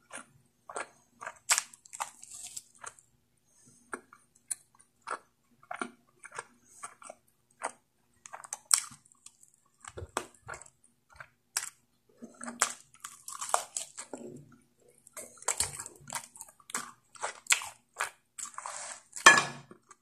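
Close-miked chewing and wet mouth smacks of a person eating spicy pork curry and rice by hand: a string of irregular clicks and smacks, the loudest about a second before the end.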